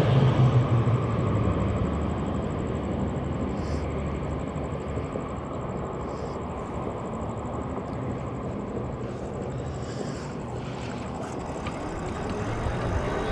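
Steady outdoor road and wind noise with a vehicle's engine hum that fades away over the first few seconds.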